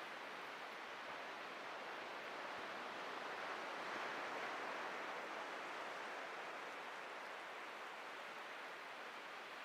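Atlantic surf washing ashore as a steady hiss that swells about four seconds in and then slowly ebbs.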